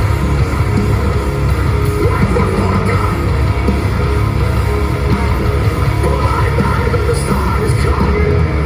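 A rock band playing live at full volume: electric guitars over heavy bass and drums, in an instrumental passage without singing.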